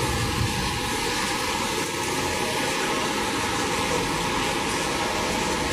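Steady rushing noise of rainwater running and pouring inside a flooding house.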